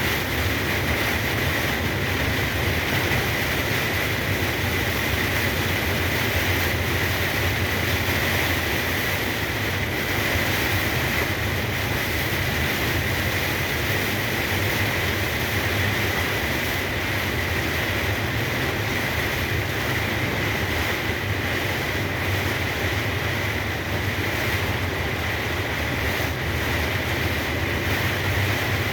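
Steady drone of a truck on the road in heavy rain, heard from inside: a low engine and road rumble under a constant hiss of rain and wet tyres.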